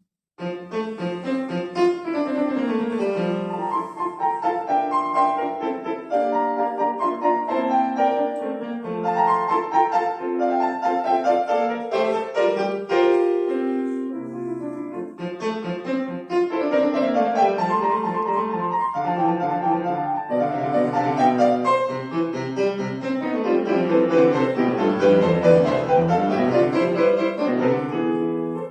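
Solo piano playing a classical piece. It starts right at the opening and moves in dense runs of notes, with sweeping passages that fall and rise again; the widest, near the end, reaches down into the low bass.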